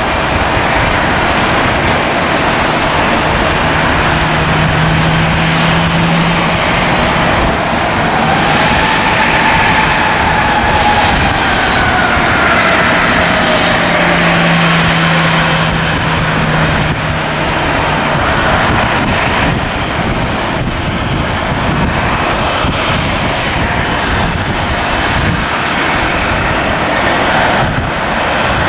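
Jet airliner engines running, with a whine that rises and then falls partway through, over steady wind noise buffeting the microphone.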